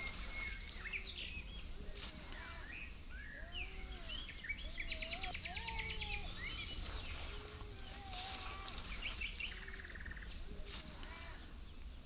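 Several birds calling in a forest: scattered chirps and short rising-and-falling whistled notes, with a fast rattling trill about five seconds in, over a low steady rumble.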